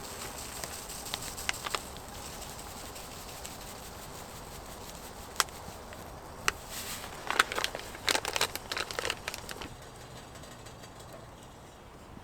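Wood campfire crackling. Sharp pops and clicks come now and then, with a thick run of them from about seven to nine and a half seconds in.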